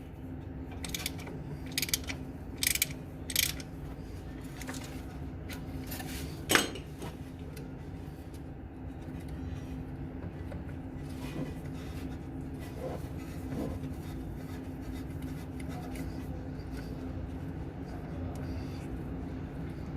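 A few sharp metallic clinks of parts or tools being handled, four in the first few seconds and the loudest about six and a half seconds in, over a steady low mechanical hum.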